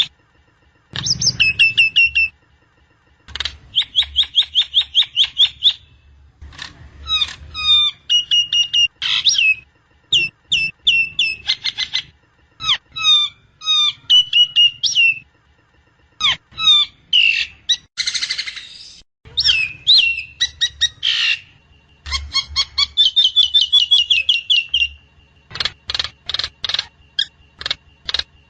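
Nias hill myna calling in bursts of quick repeated chirps, many notes sliding downward, with short pauses between phrases. A faint steady high tone runs underneath.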